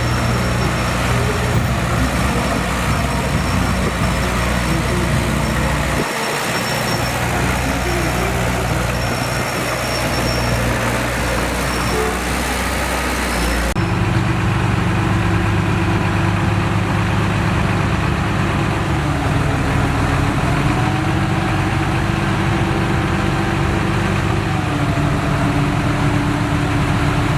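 Diesel engine of a heavy earthmoving machine running steadily. About halfway through the sound changes abruptly, and the engine's tone then wavers gently up and down.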